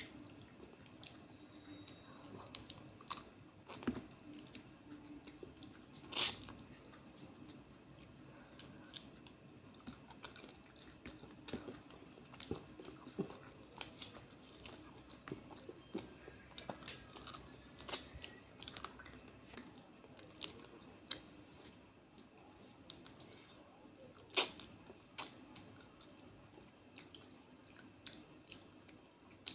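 Close-miked chewing and crunching as fried fish and rice are eaten by hand, with scattered sharp crackles and clicks throughout. Two louder crunches stand out, one a quarter of the way in and one about four-fifths in.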